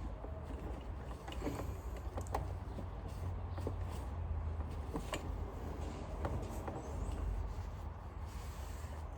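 Plastic parts of a Dyson Cyclone vacuum being handled, giving scattered light clicks and knocks over a steady low hum.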